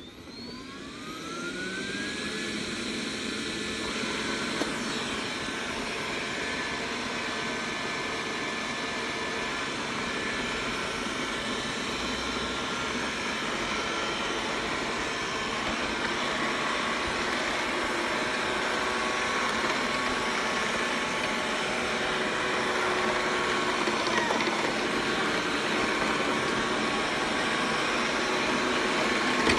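Xiaomi robot vacuum's suction fan spinning up, its whine rising over the first couple of seconds, then running steadily with a mix of steady tones and hiss as it cleans.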